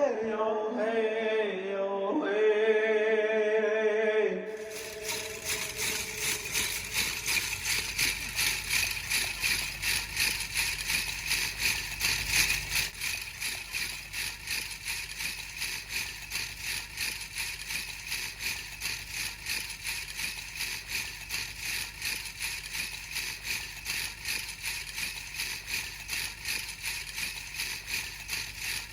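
A sung note held with vibrato, ending about four seconds in. Then a steady rushing noise that pulses regularly, two to three times a second.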